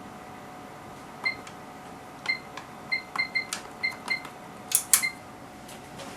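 Short, high-pitched beeps, each with a sharp click, about eight in a few seconds at uneven spacing, typical of front-panel keys being pressed on the HP 3245A universal source. A couple of louder clicks come about five seconds in.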